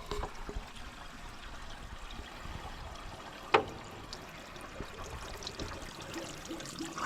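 Dirty, rusty water with sediment draining out of a Massey Ferguson 245 tractor's radiator in a steady trickle as it is flushed. A single sharp knock about three and a half seconds in.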